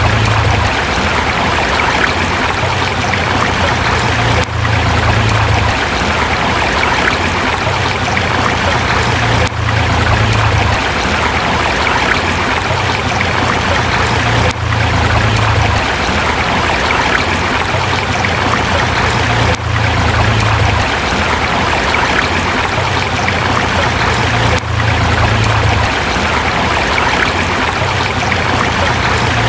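Forest river flowing over rocks, a steady rushing of water with a low rumble that swells and fades about every five seconds.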